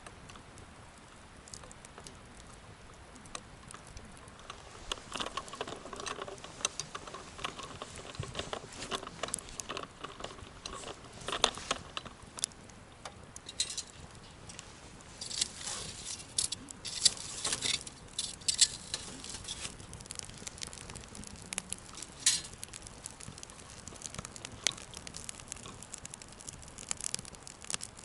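Wood campfire crackling: irregular sharp pops and snaps over a faint steady hiss, thickening into dense clusters about a fifth of the way in and again just past the middle.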